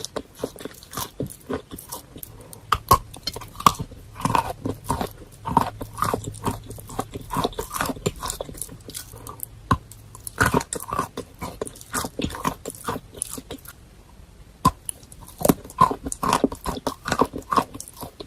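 Close-up chewing of chalk mixed with paste: irregular crunches and crackles as the chalk breaks between the teeth, with softer wet creamy sounds in between and a short lull just past the middle.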